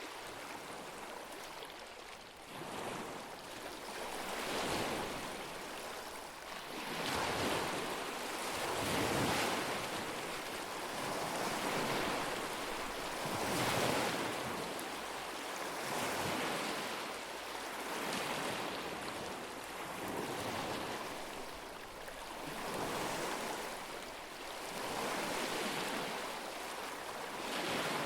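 Small lake waves lapping and washing onto the shore, each one swelling up and falling away about every two seconds.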